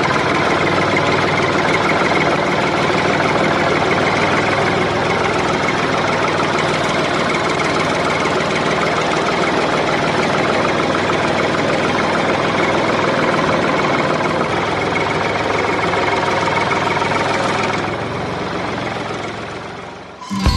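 Engine of a homemade mini tractor running steadily. It drops in level near the end and fades out.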